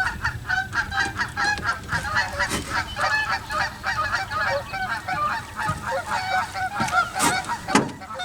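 A dense chorus of many animals calling at once: short calls repeat several times a second without a break. A couple of sharp knocks come near the end.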